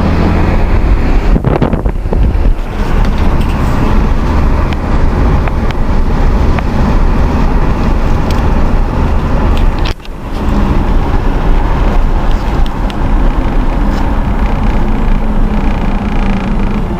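Car on the move: steady engine and road rumble with tyre noise, dropping out briefly about ten seconds in.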